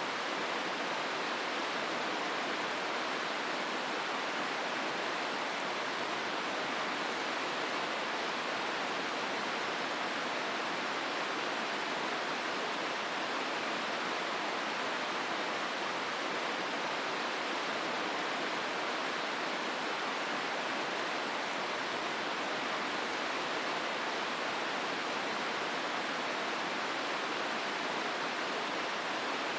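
The Hozu River flowing through a rocky gorge: a steady, even rush of water that does not change.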